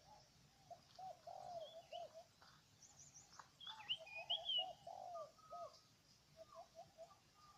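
Spotted dove cooing in a run of short, low, repeated coos, with a few high quick chirps from small birds about three to four and a half seconds in.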